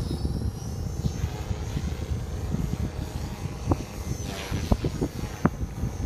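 ALZRC Devil 480 electric RC helicopter whining in flight, its pitch shifting a little, under heavy gusty wind buffeting on the microphone.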